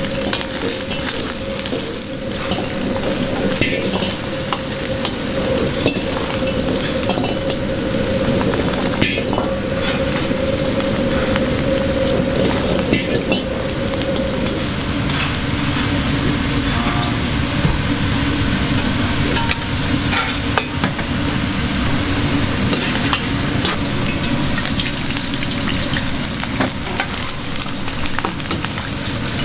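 Egg fried rice sizzling and frying in a hot pan while it is stirred, with scattered clicks and scrapes of a metal utensil against the pan. Under it runs a steady hum that drops in pitch about halfway.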